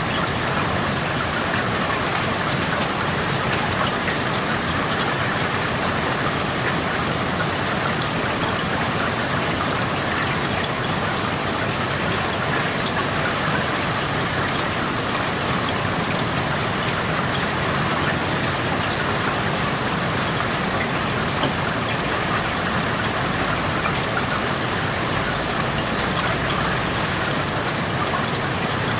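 Steady rain falling outside an open window, an even hiss scattered with many small ticks of single drops.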